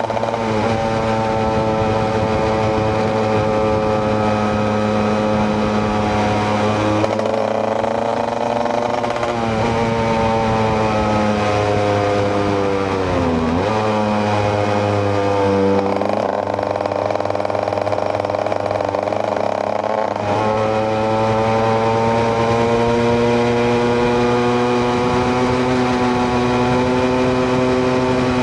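KTM EXC 125's single-cylinder two-stroke engine running under way, its pitch holding steady, then sinking as the throttle comes off around the middle, dipping sharply and climbing again, and sinking once more near the end.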